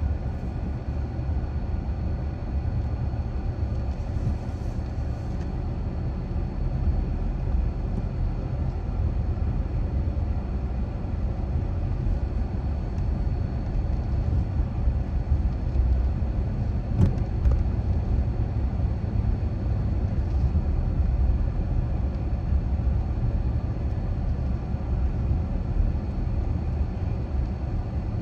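Car driving at a steady pace: a constant low rumble of engine and tyre noise, with a single sharp click a little past the middle.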